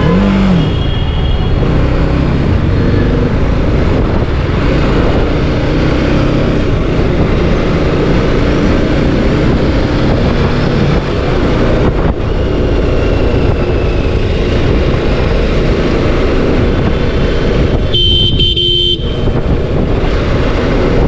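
Steady engine rumble and rushing road and wind noise from a motorcycle being ridden along a highway. A brief high beep sounds near the end.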